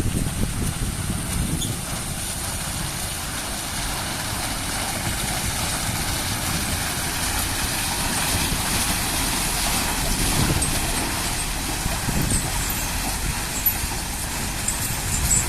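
Heavy loaded trucks driving on a rough road, engines running under a steady rumble of mixed road noise.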